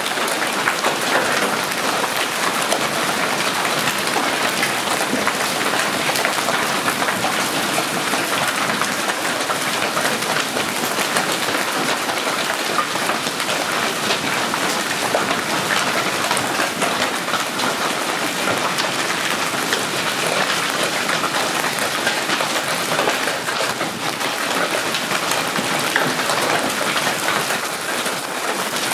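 Golf-ball-sized hail pelting down: a dense, steady clatter of countless hailstones striking hard surfaces.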